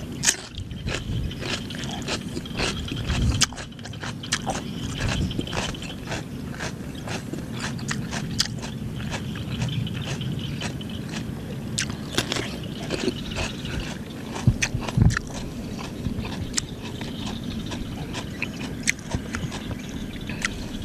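Close-up eating sounds: a raw cucumber bitten and chewed with crisp crunching, many short sharp clicks throughout.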